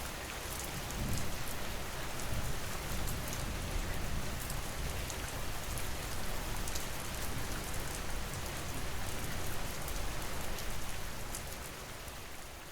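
Steady rain falling, with scattered sharp drop ticks over an even hiss, fading down near the end.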